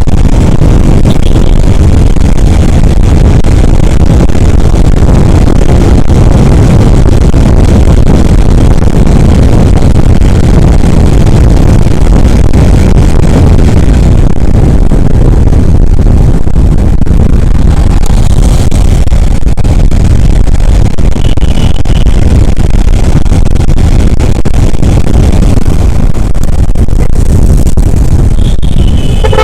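Wind rushing over the microphone on a moving motorcycle, with road and engine noise underneath: a loud, steady low rumble.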